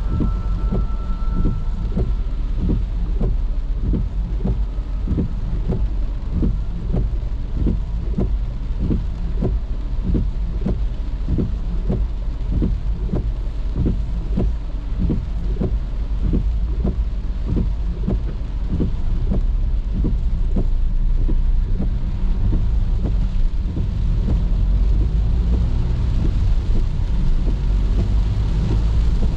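Rain on a moving car heard from inside, over a steady low road and engine rumble, with the windscreen wipers knocking about twice a second.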